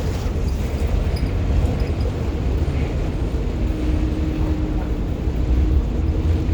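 Wind buffeting the microphone inside a moving 1990 Blue Bird All American school bus, over the steady rumble of its rear-mounted diesel engine and the road. A faint steady whine joins about halfway through.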